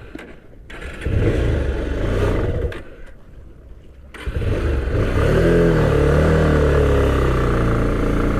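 Motorcycle engine revving about a second in and easing off briefly. From about four seconds in it runs louder and continuously, its pitch rising and falling as the bike rides.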